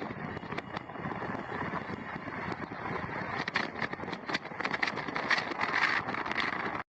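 Sandstorm wind rushing over a phone microphone, with many sharp clicks and crackles through it; the sound cuts off abruptly near the end.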